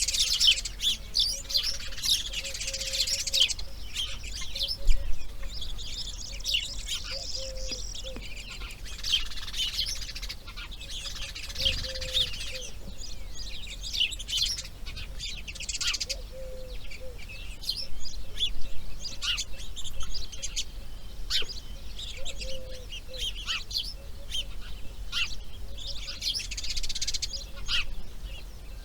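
Wild birds chirping and singing, a dense run of short high calls and trills, with a short low call repeating every few seconds.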